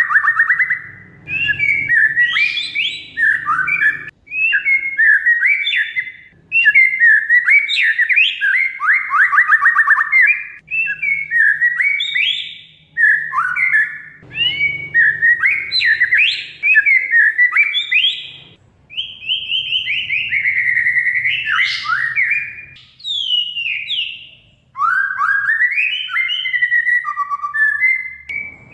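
Oriental magpie-robin (kacer) singing a long, varied song of rapid whistled phrases, trills and gliding notes, with short pauses between phrases.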